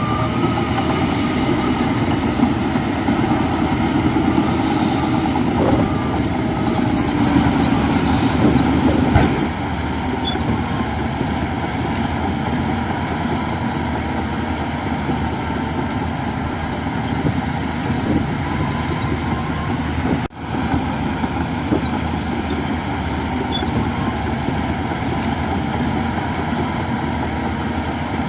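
Diesel engines of heavy machinery and trucks running, louder for the first nine seconds or so and then steady, with a momentary dropout about twenty seconds in.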